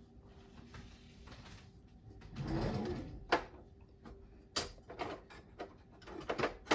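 Kitchen handling sounds: a short rustling shuffle, then a few sharp clicks and knocks of utensils.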